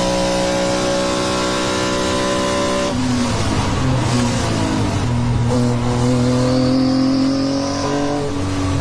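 Lamborghini Temerario GT3 race car's twin-turbo V8 pulling hard with its pitch slowly climbing, then dropping suddenly about three seconds in at a gear change, before climbing again with another shift near the end.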